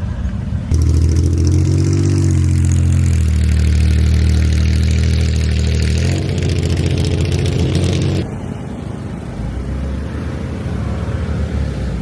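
A car engine running loudly and revving, its pitch climbing soon after it starts and then holding steady before it cuts off suddenly.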